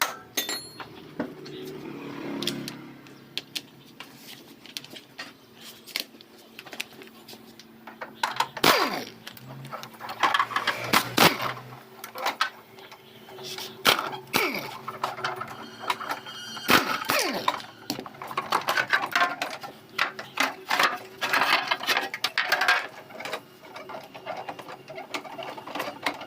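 Metal hand tools and parts clinking and clanking in irregular bursts as a motorcycle's rear suspension is taken apart, over a faint steady hum.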